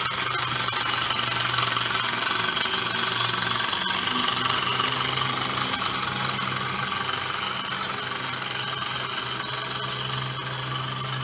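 Small live-steam model traction engines running, a rapid, even mechanical clatter with a steady hiss over a low hum.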